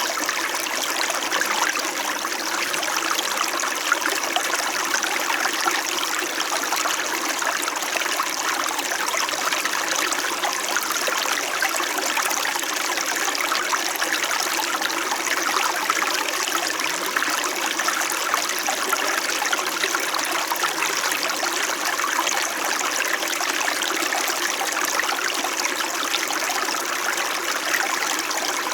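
Small stream flowing steadily, with a continuous close babbling and trickling of water over stones.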